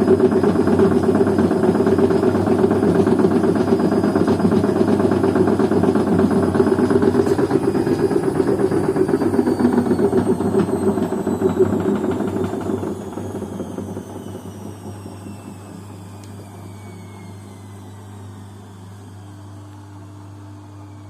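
Washing machine winding down from a spin: the loud drum rumble fades away about twelve to fourteen seconds in, while the motor's whine falls steadily in pitch as the drum coasts toward a stop, leaving a low hum.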